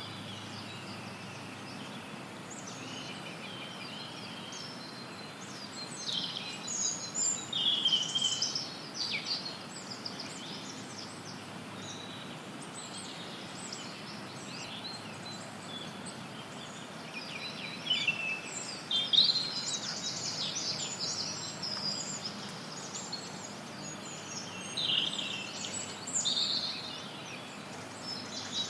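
Forest songbirds chirping and trilling in scattered bunches over a steady hiss of added white noise.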